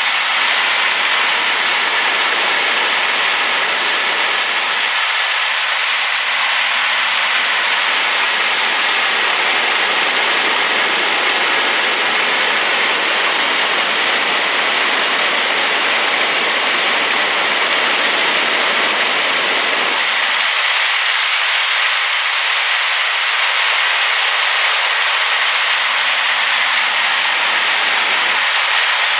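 Rain-swollen waterfall pouring, a loud steady white-noise rush.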